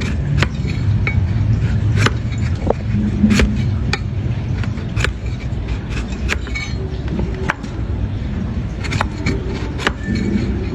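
Hoof-trimming tools working a donkey's hoof: irregular sharp clicks and knocks, a few every second, over a steady low rumble.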